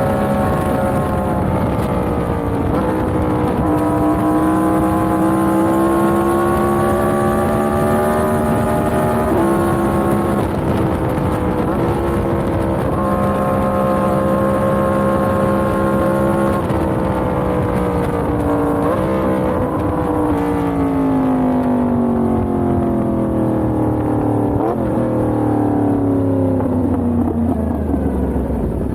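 Yamaha MT-10 motorcycle's crossplane inline-four engine under way, holding and climbing in pitch with several quick shifts. Over the last third it falls steadily in pitch as the bike slows, with one brief rev blip along the way.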